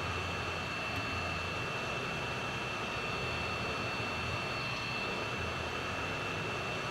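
Steady rushing noise from a small motor blowing air, with a constant high whine running through it.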